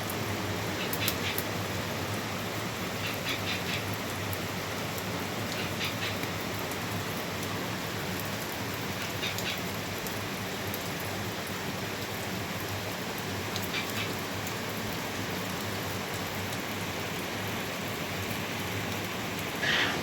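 Steady hiss of water, with short high chirps every few seconds.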